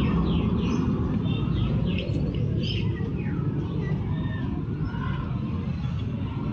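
Many small birds chirping, with short notes that fall in pitch, scattered throughout over a steady low rumble of motor traffic.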